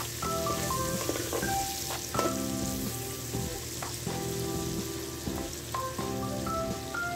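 Sliced onions and garlic sizzling in hot oil in a metal pot while a metal ladle stirs them, with scattered clicks of the ladle against the pot. Background music with held notes plays over it.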